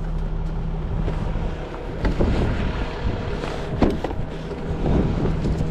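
Tow truck engine idling steadily, with wind on the microphone and a few sharp knocks and clanks of equipment being handled, the clearest about two seconds and about four seconds in.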